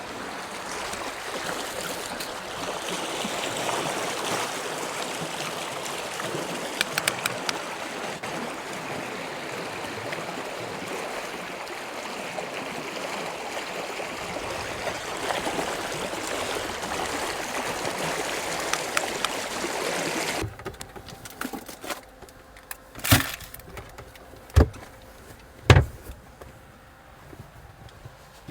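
Rushing water of a glacial meltwater river, a steady hiss that cuts off abruptly about two-thirds of the way through. After it, three sharp knocks a second or so apart, with a few lighter clicks.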